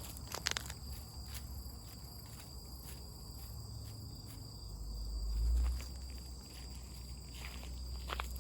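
Insects, crickets or similar, chirring steadily at a high pitch, with a few sharp clicks or snaps, one just after the start and one near the end, and a low rumble that swells briefly about five and a half seconds in.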